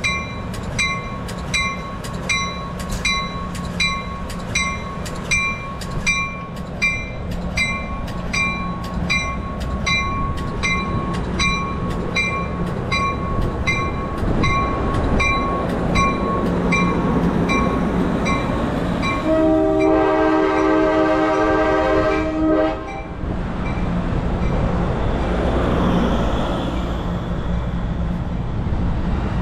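A warning bell clangs in a steady, regular rhythm. About twenty seconds in, a train horn sounds one long blast of several tones, and then the Amtrak Pacific Surfliner pulls out, the rumble of the bilevel cars growing as they roll past.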